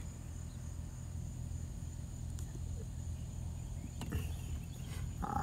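Quiet outdoor background: a steady low hum with a faint thin high-pitched tone, and a couple of faint clicks.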